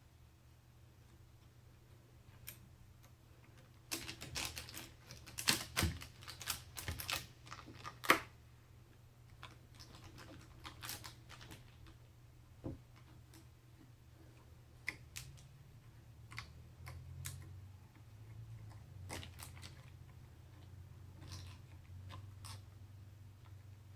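Hands handling computer parts during a PC build: a quick cluster of clicks and rattles about four seconds in, then scattered single clicks, over a steady low hum.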